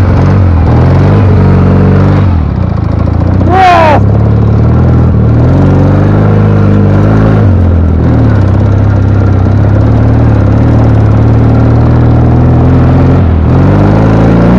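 Ural IMZ-8.103.10 flat-twin motorcycle engine under heavy throttle through deep snow, its pitch rising and falling several times as the rider eases off and opens up again. A brief high-pitched squeal sounds a few seconds in.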